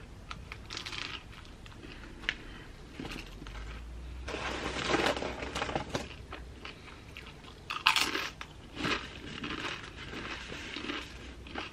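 Close-up mouth sounds of someone biting into and chewing a Subway tuna sandwich: soft wet chewing with irregular crunches, a few louder than the rest.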